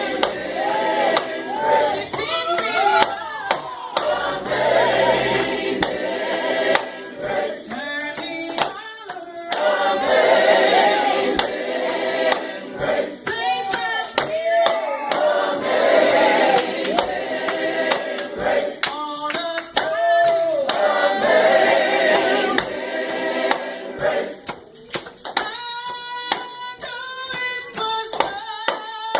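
Gospel choir singing with a tambourine shaken and struck along in rhythm.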